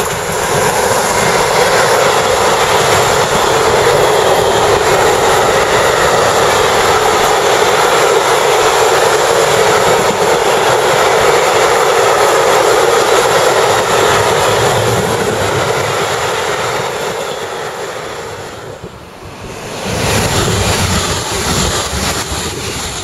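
A long freight train of hopper wagons, hauled by a DB class 189 electric locomotive, rolling past at speed: a loud, steady rush of wheels on rails that eases off toward the end of the train. After a short dip, a double-deck regional train passes with a similar rush and a deeper rumble near the end.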